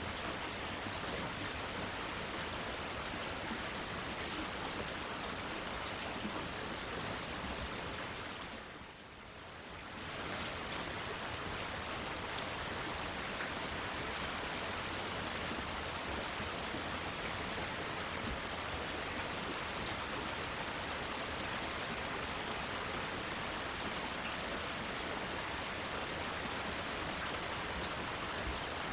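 Steady rain falling, an even hiss of drops. About eight seconds in it fades down briefly and swells back up about two seconds later.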